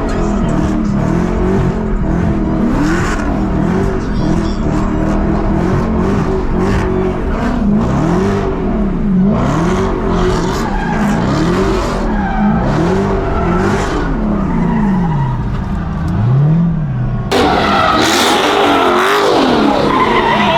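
Car engine revving up and down over and over during a burnout, with tyre squeal and skidding noise. About seventeen seconds in, the sound changes abruptly to a harsher, noisier roar with high squeal.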